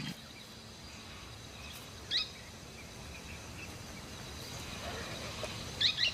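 Outdoor bush ambience: a steady high insect drone, with a short bird call about two seconds in and a quick double call near the end.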